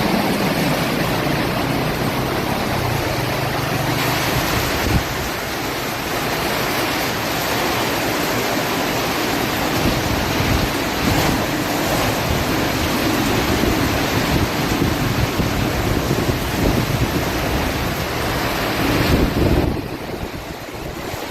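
Heavy rain pouring in strong wind, with gusts buffeting the microphone; the noise eases a little near the end.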